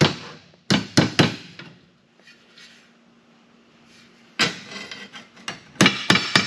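Sharp hammer blows on sheet steel from a stretching hammer, working a patch panel to take the belly out of it and bring back its contour. A quick run of strikes, a pause of about two seconds, then another run of strikes.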